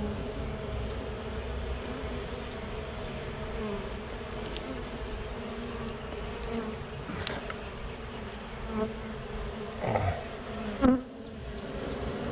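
Honeybee colony buzzing steadily as its comb is handled and removed. A brief, louder sound rises over the hum near the end.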